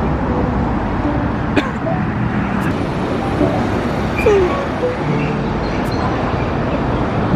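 Steady low rumble of road traffic, with a few faint clicks and tones on top.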